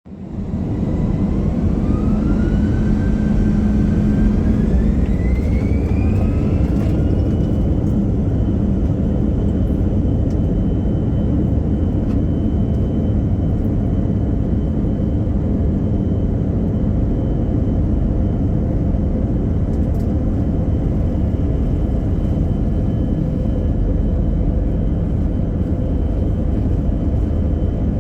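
Airbus A321-200's twin jet engines spooling up for takeoff, heard from the passenger cabin. A whine rises in pitch over the first several seconds, then holds steady under a constant heavy rumble of the takeoff roll.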